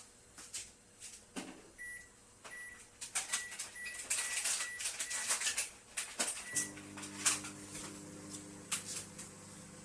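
Sharp 20-litre microwave oven being set: a string of clicks from its controls with short high beeps. About six and a half seconds in, the oven starts running with a steady low hum.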